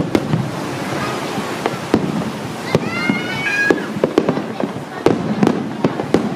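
Aerial fireworks going off: a series of sharp bangs and pops, several a second at times, over a steady background rumble.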